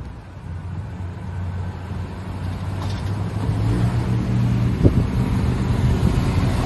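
Classic Holden Torana hatchback approaching across a bridge, its low engine note growing steadily louder as it nears. A brief sharp knock comes about five seconds in.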